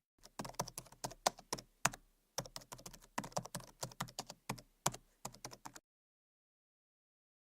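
An irregular string of sharp, light clicks, about three or four a second, that stops about three-quarters of the way in. After that the sound drops to dead silence.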